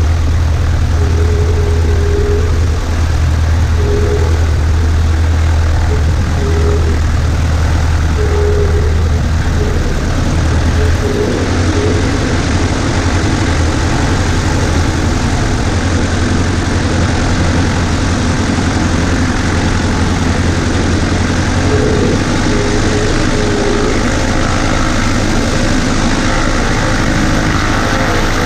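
Cessna 140A's light-aircraft piston engine and propeller running steadily, heard from inside the cabin; the engine's low drone changes about eleven seconds in.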